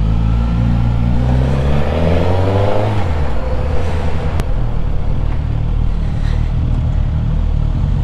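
Suzuki GSX-S1000 inline-four motorcycle engine pulling away, its pitch rising for about a second and a half before settling into a steady run at low town speed.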